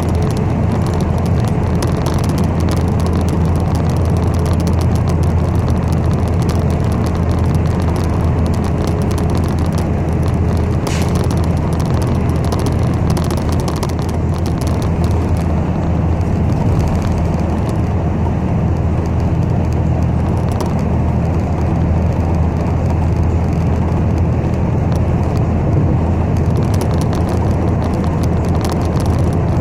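Inside a moving city bus: a steady low rumble of engine and road noise in the cabin.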